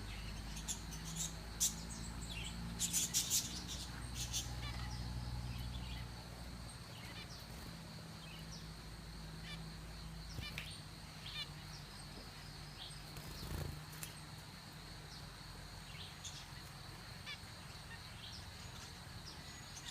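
Captive finches chirping with short, high calls. A burst of loud calls comes about three seconds in, and scattered calls follow, over a steady low hum.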